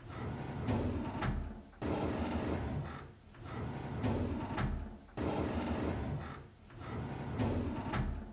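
A drawer sliding open on its runners in a rumbling slide that starts suddenly and ends with a sharp click. The same sound repeats about every three and a half seconds, starting again at roughly two and five seconds in.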